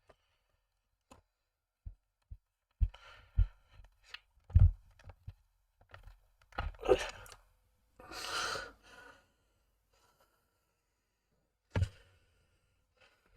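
Light clicks and knocks of small model parts and a screwdriver being handled on a workbench, irregular and spaced out, with a couple of short hissing bursts between them.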